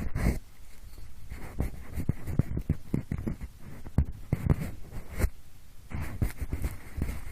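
Pencil rubbing and scratching in quick short strokes, close-up sound made to imitate ear cleaning, playing in both ears at once. The strokes pause briefly a little past five seconds in, then resume.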